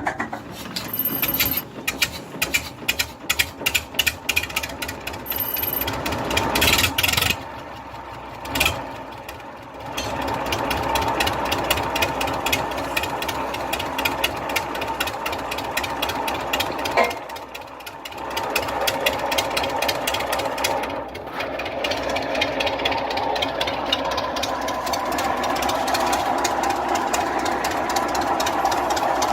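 Vintage engine starting: a run of separate, uneven firing knocks, then a brief break, then it settles into steady, fast running with a knocking beat.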